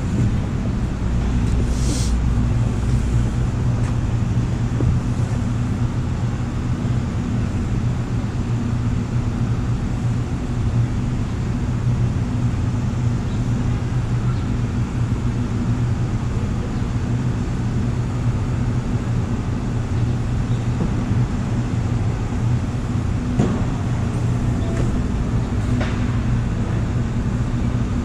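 Steady low rumble and hum of a vehicle in motion, with a few faint clicks.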